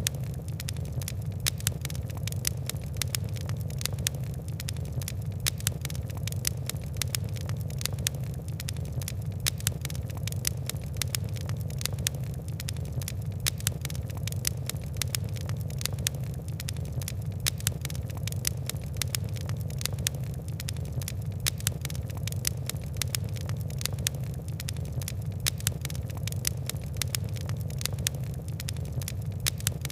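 Fire crackling: dense, irregular sharp pops and ticks over a steady low rumble of flames.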